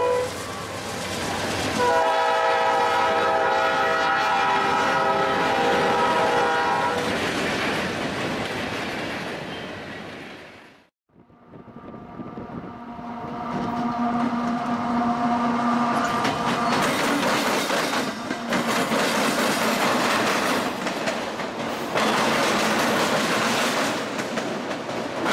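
Diesel freight locomotive horn: a short blast, then a long chord of several tones lasting about five seconds that fades as the train rolls on. After a break, freight cars roll past close by, their wheels clattering on the rails with repeated knocks.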